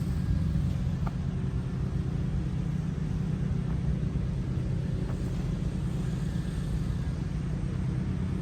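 Steady low rumble of a running engine, with a faint even hum above it.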